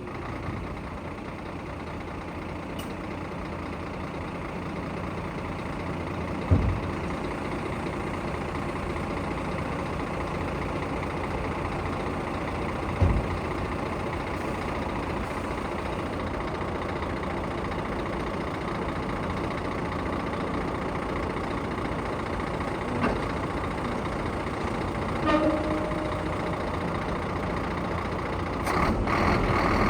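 Scania P114 dump truck's diesel engine idling steadily, with two dull thumps and a brief beep partway through; the sound grows louder near the end.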